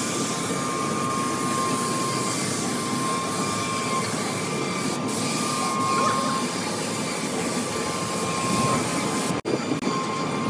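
A motor-driven machine running steadily: a constant high whine over a hiss, with two short drop-outs about nine seconds in.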